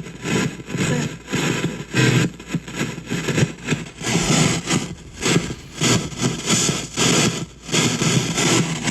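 Spirit box sweeping through radio stations, heard through a noise reducer and shop radio: choppy bursts of static and broken radio fragments that switch several times a second.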